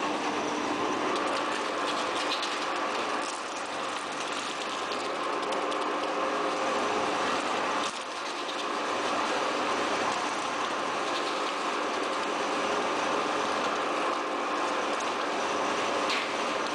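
Tire recycling line machinery running steadily: a continuous mechanical drone with a few held tones and scattered rattles and clicks.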